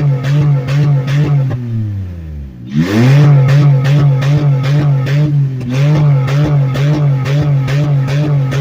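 2001 Nissan Xterra's 3.3-litre V6 bouncing off its rev limiter, the engine note cutting in and out several times a second, through an exhaust with the catalytic converters cut off. Past a second in the revs drop away, then the engine is snapped back up to the limiter and bounces on it again.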